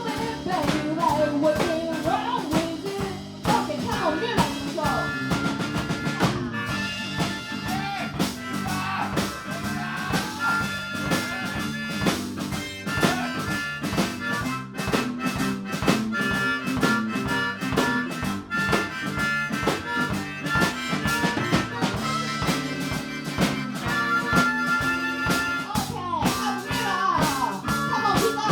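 Live blues band playing with drum kit, bass and guitar, a harmonica taking the lead with held, repeated high notes through the middle of the passage.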